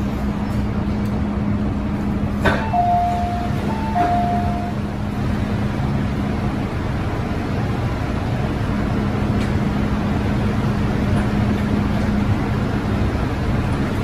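MTR M-Train heard from inside the passenger car: steady running noise with a constant low hum. A little over two seconds in, a click is followed by a two-note falling chime, sounded twice.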